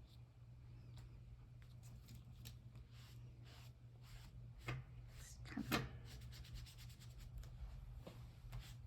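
Faint rubbing and dabbing on paper from a paint sponge being worked over a stencil: many small scratchy touches, with a couple of louder strokes about halfway through. A steady low hum runs underneath.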